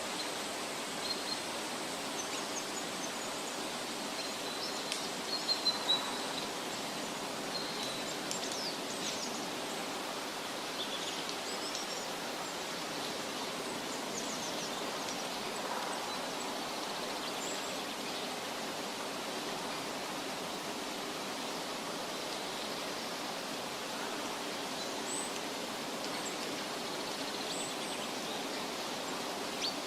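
Forest ambience: a steady, even rushing noise with faint, scattered bird chirps, and a short run of sharp clicks about five to six seconds in.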